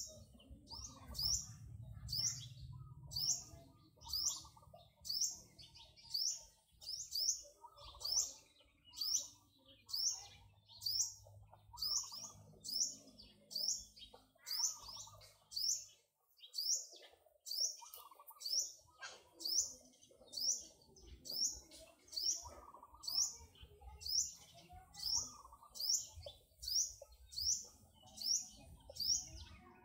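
A bird repeating a short high chirp over and over, about once a second.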